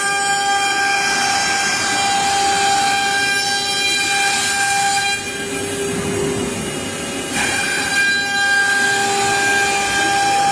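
HSD high-speed spindle of a heavy-duty CNC machining center running with a steady high whine over a hiss of cutting noise. The whine falters and the level dips for about two seconds midway, then comes back.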